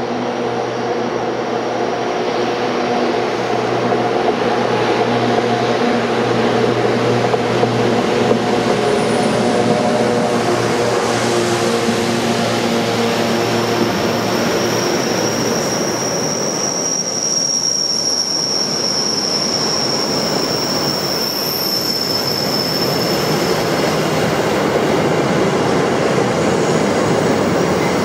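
Freight train hauled by a GBRf class 92 electric and a class 66 diesel locomotive approaching and passing close by. The locomotives' steady hum builds, and from about halfway it gives way to the rumble of car-carrier wagons, with a high-pitched wheel squeal lasting several seconds.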